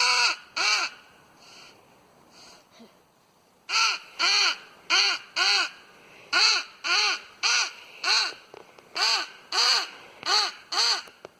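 Nordik crow call blown in a string of short, loud caws, each rising then falling in pitch, about half a second apart and loosely paired: two caws at the start, a pause of about three seconds with a few faint caws, then a steady run of caws.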